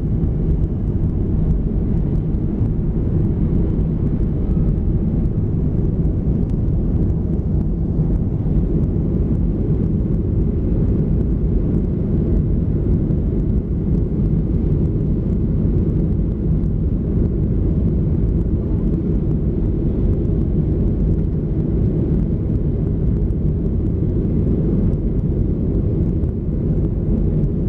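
Steady low cabin rumble of a Boeing 737-400 climbing after take-off, its CFM56-3 turbofan engines and the airflow along the fuselage heard from inside the cabin.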